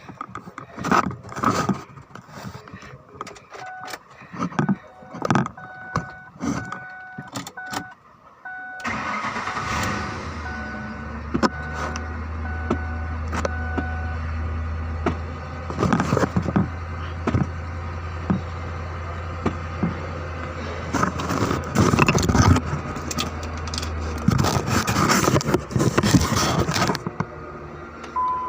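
Clicks and knocks under a repeating electronic chime, then about nine seconds in a 2005 Ford Expedition's V8 starts and runs with a steady low hum, following replacement of four ignition coils and cleaning of the spark plugs. Louder knocks and clatter come near the end.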